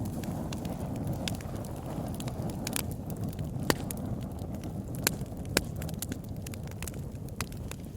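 Campfire burning with a steady low rumble of flames and irregular sharp crackles and pops from the wood; a few louder pops stand out in the second half.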